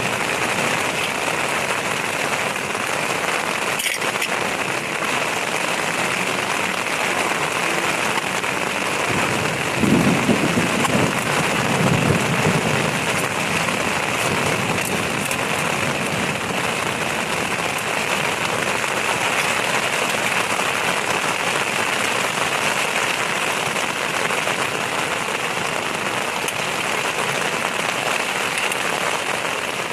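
Heavy rain falling steadily on a tent. About ten seconds in, a low rumble of thunder lasts a few seconds.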